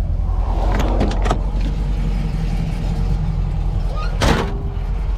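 Car engine running with a steady low rumble, with a few light clicks about a second in and a louder short knock at about four seconds.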